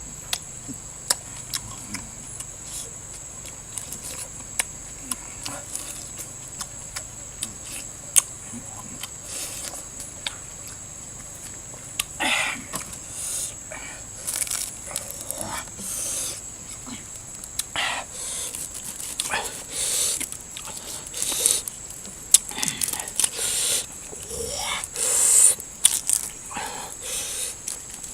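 Someone eating: irregular chewing and smacking noises with scattered sharp clicks, over a steady high-pitched tone.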